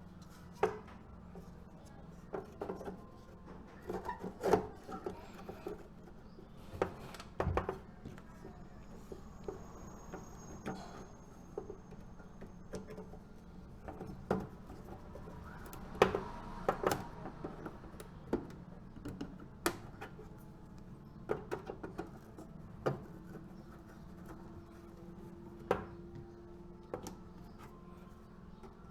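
Irregular clicks and knocks of small tools and parts being handled during electrical panel repair work, over a steady low hum.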